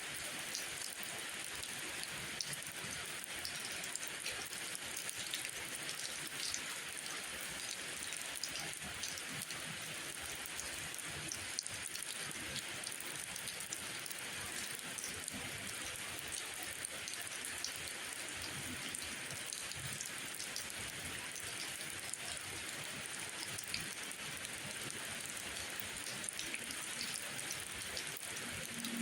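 Steady rainfall, a dense even hiss with many small scattered drop ticks.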